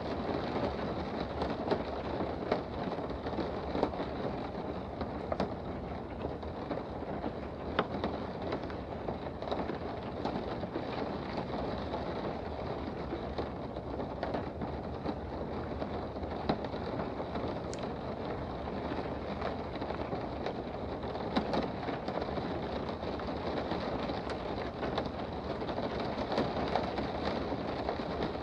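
Steady rain heard from indoors: a constant hiss with scattered sharp drip-like ticks of single drops hitting a surface.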